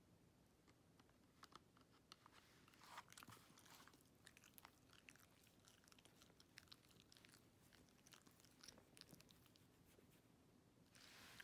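Faint, irregular clicking and crunching of a Shiba Inu's teeth mouthing a plastic TV remote, with a short rustle near the end.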